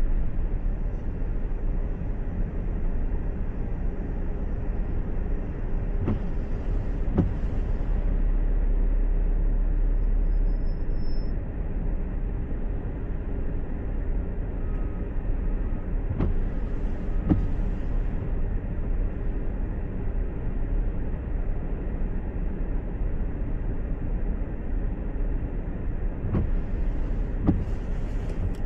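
Steady road and engine noise of a car being driven, heard from inside, with pairs of short knocks about a second apart that come back roughly every ten seconds.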